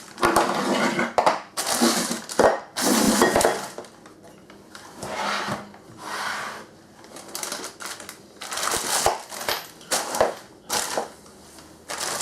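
Irregular clattering, rustling and knocking of hand-handled hardware (screws, washers and caster wheels) while wheels are being fitted to a wooden platform, busiest in the first few seconds.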